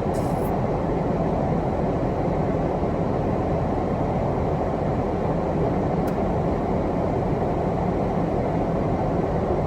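Car's defroster fan blowing hard inside the cabin: a steady, unchanging rush of air.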